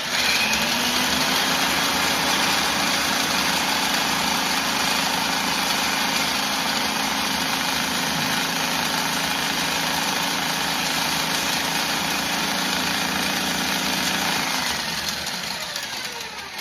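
Power drill spinning a Husky drain snake attachment at steady speed, then slowing and winding down near the end.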